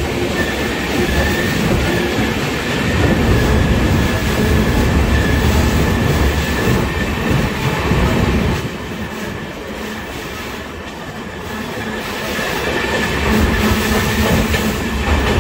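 Passenger train running at speed, its wheels on the rails making a loud steady rumble in a tunnel. The noise drops about eight seconds in as the train comes out into the open, then rises again near the end as it enters another tunnel.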